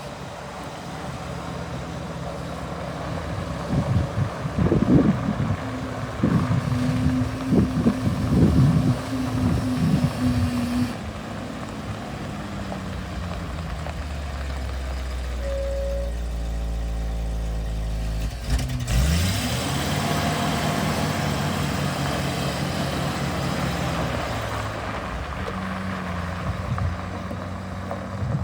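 A 1977 Ford LN600 grain truck's engine running, with a series of knocks and rattles in the first third. About two-thirds through, the engine sound breaks off briefly, then climbs in pitch again.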